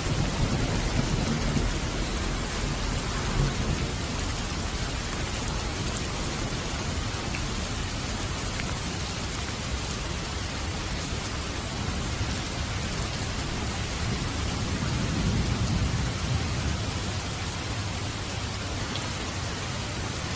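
Steady rain falling in a thunderstorm, a constant even hiss. A low thunder rumble fades away in the first couple of seconds, and another low roll swells and dies away about fifteen seconds in.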